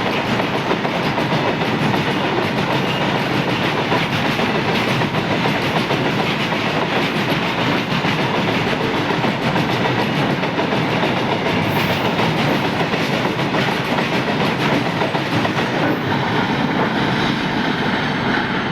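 Goods wagons of a long freight train rolling past at speed, a steady loud rumble with wheels clattering over the rail joints.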